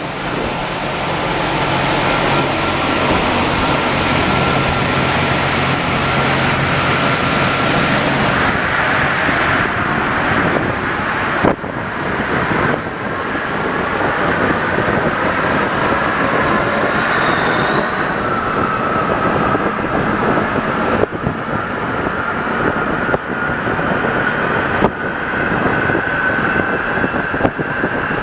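Alstom NS-74 rubber-tyred metro train running, a steady loud rumble with a thin motor whine on top that glides upward in pitch through the second half.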